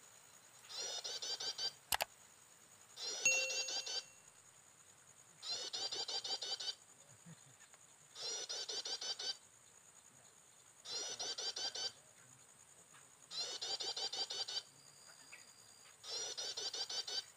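Prinia (prenjak) chirping call played as a looped lure: identical bursts of rapid chirps about a second long, repeating every two and a half seconds. A single sharp click comes about 2 seconds in.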